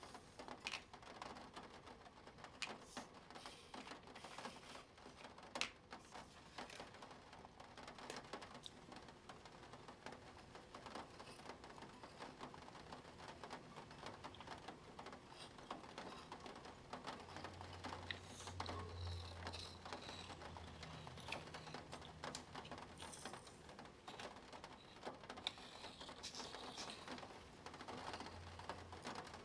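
Faint, irregular small clicks and scratches of a pen and plastic Spirograph gear working over paper, with a low hum in the second half.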